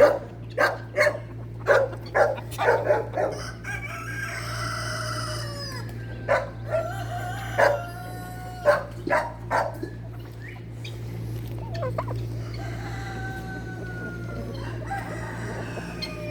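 Chickens squawking and clucking in quick runs of short, sharp calls, with a rooster crowing twice, long falling calls about four seconds in and again near the end.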